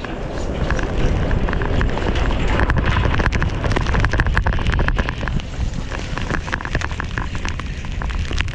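Wind buffeting an action camera's microphones, mixed with the hiss of sliding through deep powder snow, with many short clicks and knocks throughout.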